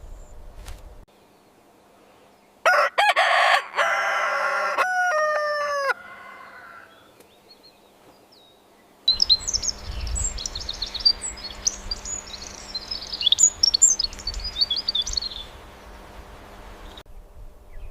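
A rooster crows once, its call ending in falling notes. After a pause, small birds chirp and twitter over a low outdoor rumble for about eight seconds.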